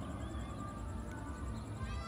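Birds calling over a steady low outdoor rumble: a few faint short notes, then a louder call with several overtones that drops in pitch near the end.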